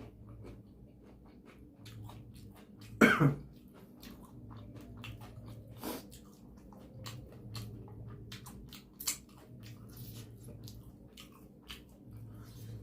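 Close-miked eating sounds: chewing and small wet mouth clicks from someone eating mutton curry, with one loud cough about three seconds in.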